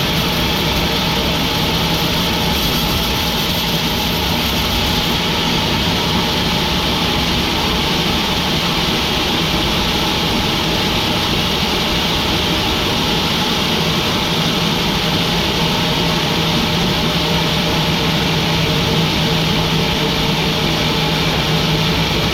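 Sawmill machinery running steadily: a constant loud mechanical drone with an even hum under it and no change in pace.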